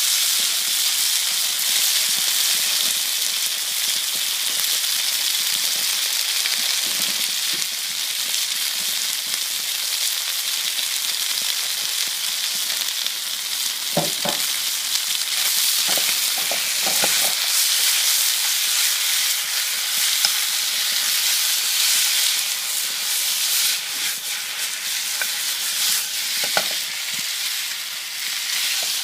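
Cornstarch-coated meat sizzling in hot oil in a wok, a steady frying hiss. A few short knocks from a utensil on the wok come about halfway through and again near the end.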